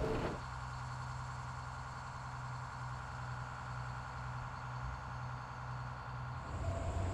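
Steady low mechanical hum with a constant pitch, like an engine or machine idling.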